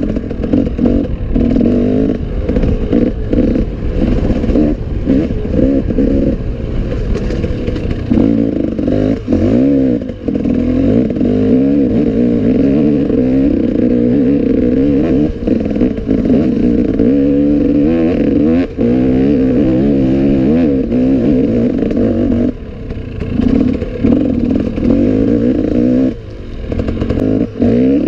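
Enduro motorcycle engine revving up and down without pause as the throttle is worked over rough forest trail, with knocks and rattles from the bike throughout and brief drops in engine sound a few times.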